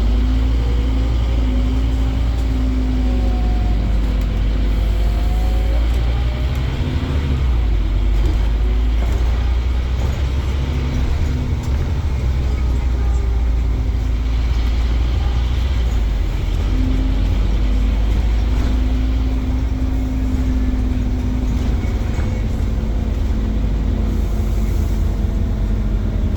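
Scania Omnicity double-decker bus's diesel engine and drivetrain running under way, a steady deep rumble with a whine that rises and falls in pitch several times as the bus speeds up and slows.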